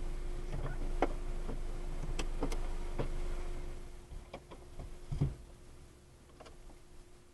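A car at a conveyor car wash: a steady low hum with a faint steady tone, scattered clicks and knocks, the hum falling away about four seconds in, and a heavy thump just after five seconds.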